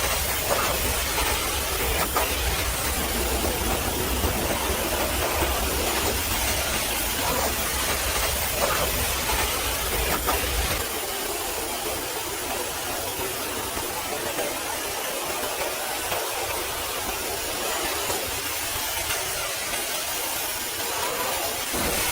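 High-pressure washer spray hissing steadily against a mud-caked truck. A low rumble underneath drops away about halfway through.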